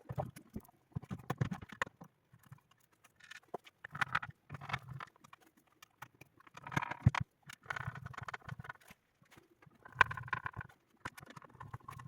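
Irregular clicks, knocks and rattles of parts being handled and fitted together, in bursts with short pauses, as the Sonos Playbar soundbar is glued and reassembled.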